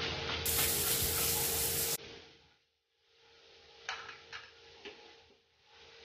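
Beans and tomatoes sizzling in a steel kadai while a metal spatula stirs them. The sizzling cuts off abruptly about two seconds in. Then it is near quiet, with a few light clicks as the spatula is set down on the counter.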